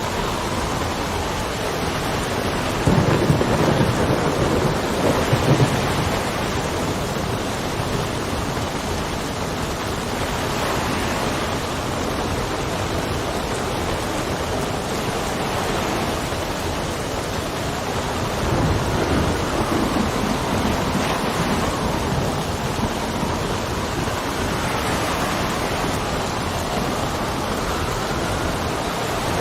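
Steady heavy rain with wind. Two low rolls of thunder rumble through it, the first about three seconds in and the second a little past halfway.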